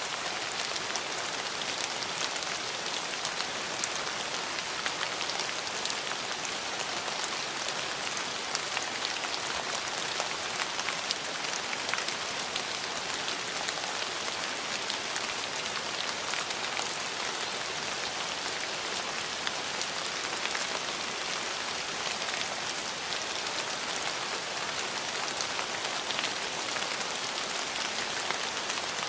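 Steady rain falling on hard surfaces, an even hiss dotted with many small drop ticks.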